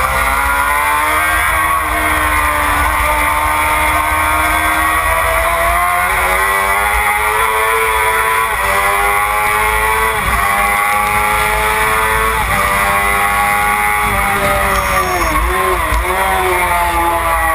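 Racing motorcycle engine heard from an onboard camera at speed, its pitch climbing as it accelerates, with brief drops at gear changes and a dip with quick wobbles near the end as it slows. Heavy wind rumble underneath.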